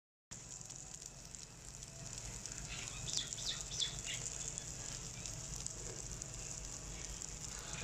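Chicken shami kababs sizzling as they shallow-fry in oil on a flat iron griddle: a steady frying hiss.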